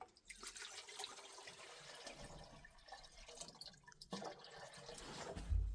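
Water dripping and trickling, with many small scattered drips over a steady watery hiss. A low thump comes near the end.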